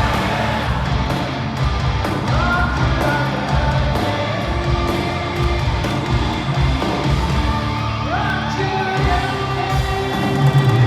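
Live hard rock played loud by a band at a stadium concert, with electric guitars, a pounding bass and singing, and the crowd yelling along.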